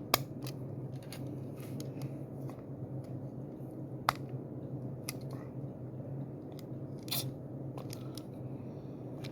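Small clicks and snaps of rubber tires being worked onto the wheels of a Majorette diecast toy car, with sharp clicks near the start and about four seconds in. A steady low hum runs underneath.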